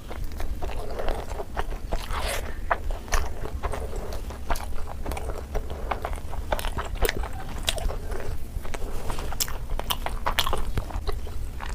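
A person biting and chewing food close to the microphone, eating ASMR-style with many sharp, irregular mouth clicks and bites, over a steady low hum.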